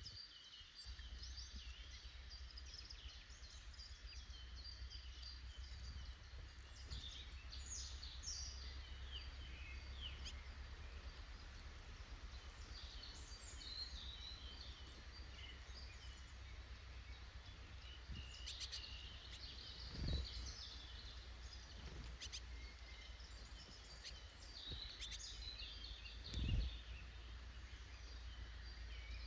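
Small woodland songbirds chirping and calling on and off over a steady low rumble, with two dull thumps about six seconds apart in the second half.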